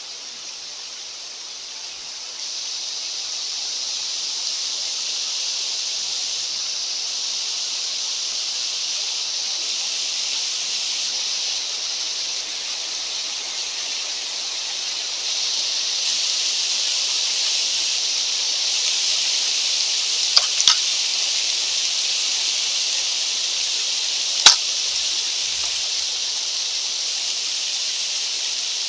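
Steady high hiss of wind on a mountainside, growing louder in two steps. A few sharp clicks come about two-thirds of the way in, then a single louder click.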